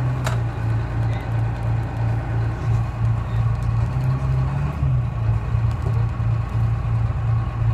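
Detroit Diesel 6V71 two-stroke V6 diesel of a 1970-71 GMC New Look bus running, a strong steady low drone that pulses evenly. A single sharp click shortly after the start.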